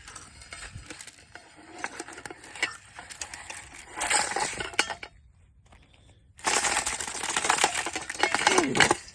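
A squirrel-proof bird feeder rattling and clinking as it is handled with the trapped squirrel inside. There are a few light clicks, then a short bout of rattling about four seconds in and a longer one of about two and a half seconds near the end.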